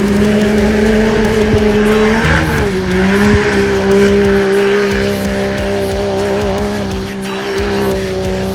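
Engine held at high, steady revs, its pitch dipping slightly about two seconds in and then holding.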